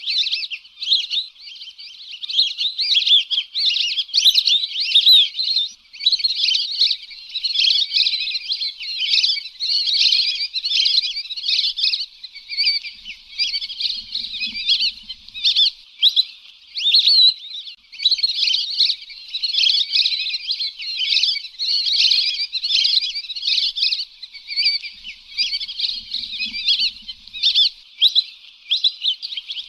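Flock of lesser whistling ducks calling in a dense, continuous chatter of short, high whistled notes, many overlapping. This is a lure call used to draw whistling ducks in.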